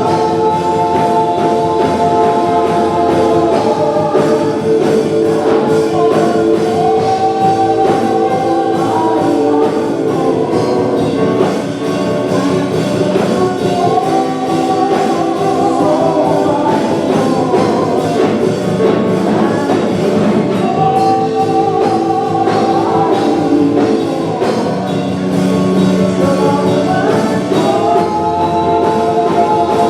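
Gospel worship song: voices singing long held notes over a band, with a steady beat.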